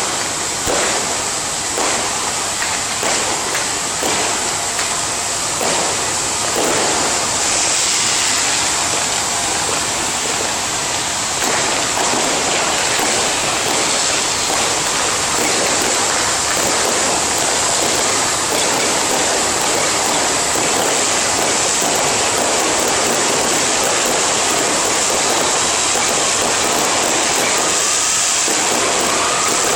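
Long string of firecrackers going off: rapid separate cracks for the first dozen seconds, then merging into a dense, unbroken crackle.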